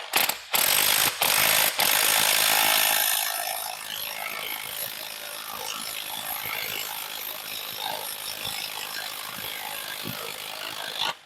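A ratchet running the harmonic balancer bolt into the crankshaft of an LS3 V8. It opens with a few sharp knocks, runs loud for about three seconds, then carries on more quietly and stops suddenly near the end. The bolt goes in stiffly, its threads in the crank not cleaned out.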